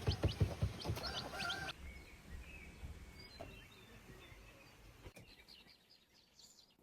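Quick, repeated tapping with small birds cheeping over it, then, after a cut at about a second and a half, quiet outdoor ambience with faint scattered bird chirps.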